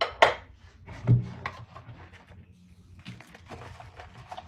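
Dishes and kitchenware knocking and clattering while being hand-washed. Two sharp knocks come about a quarter second and a second in, followed by scattered lighter clinks.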